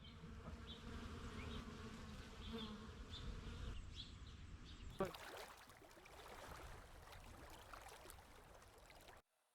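A faint buzzing hum over low rumble for the first few seconds, then a single sharp click about five seconds in and faint outdoor hiss.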